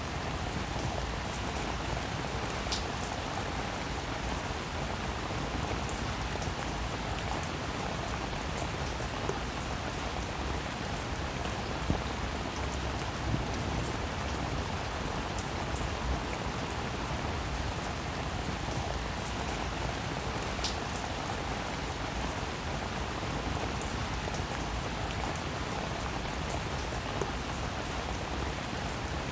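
Steady rain falling, an even hiss of drops with scattered sharper drop ticks now and then.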